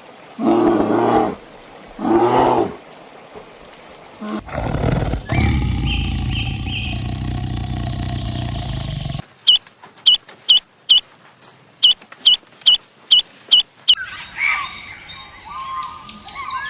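A run of different animal calls. It starts with two loud calls, then a long roar-like call, then a string of about a dozen short, sharp, high chirps, and ends in a jumble of higher calls.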